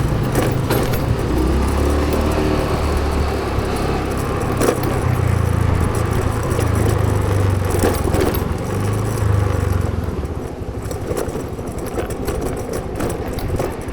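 Motorcycle engine running, its low note stepping up and down as it pulls, then easing off about ten seconds in, with scattered clicks and rattles over it.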